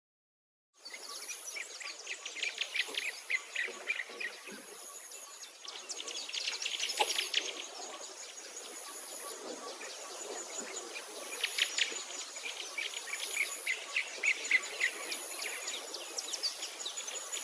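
Outdoor chorus of birds chirping and insects calling: many quick chirps and trills, with a short high insect-like note repeating every second or two. It starts suddenly about a second in, out of silence.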